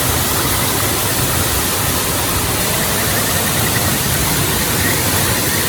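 Steady rushing roar of a waterfall, even and unbroken, with faint repeated high chirps over it.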